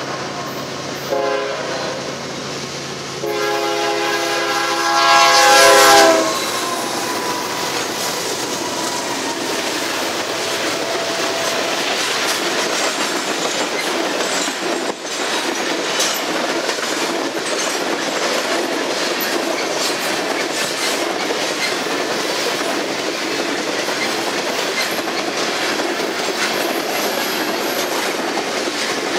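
Freight diesel locomotive's horn blowing a chord in blasts as it approaches, the last blast the loudest and ending about six seconds in; then the long train of hopper cars rolls past close by with a steady rumbling clatter and the clickety-clack of wheels over the rails.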